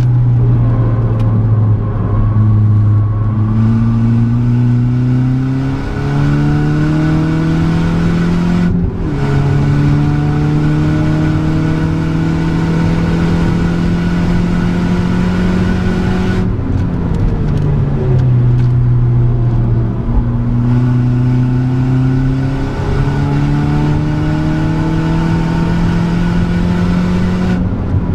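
Volkswagen Polo GTI's 1.8-litre turbocharged four-cylinder heard from inside the cabin under hard acceleration on track: the engine note climbs, drops quickly at a gear change about nine seconds in, and climbs again. Around sixteen seconds the driver lifts off and the note falls away, then it picks up and pulls hard again until another lift near the end.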